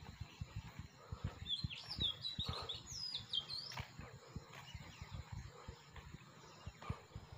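A small bird chirping a quick run of short, high notes that slide up and down, starting about a second and a half in and lasting about two seconds. Under it, soft low thuds of footsteps on a paved road.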